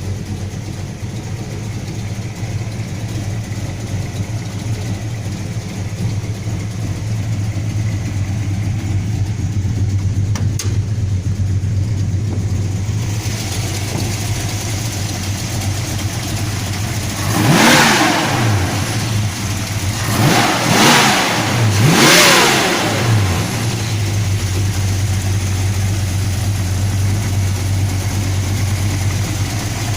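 1968 Plymouth Road Runner's 440 V8 (7.2 L) idling, then revved three times in quick succession a little past the middle, each rev rising and falling back, before it settles to idle again.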